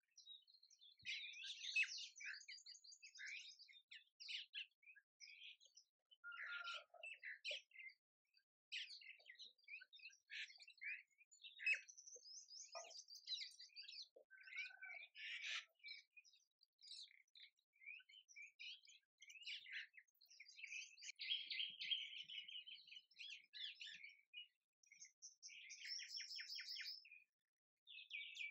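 Small birds chirping and twittering, short high calls coming one after another with brief gaps.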